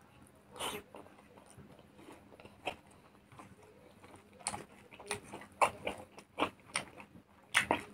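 Close-up mouth sounds of a person chewing smoked pork: irregular wet smacks and clicks, sparse at first and coming thicker in the second half.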